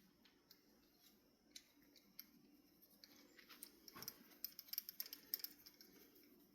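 Faint scattered clicks and light taps from a screw and small ceiling-fan parts being handled, more frequent in the second half.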